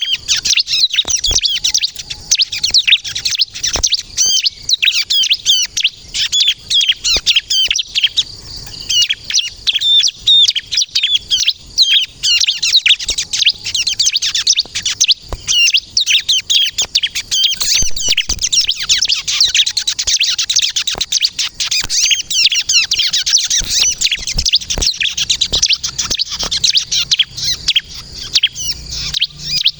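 Bar-winged prinia (ciblek) singing non-stop: a rapid, continuous stream of high chirping notes, with a brief lull about eight seconds in.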